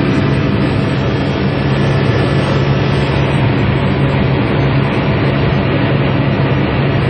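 Helicopter in flight: a loud, steady drone of engine and rotor noise with a strong low hum.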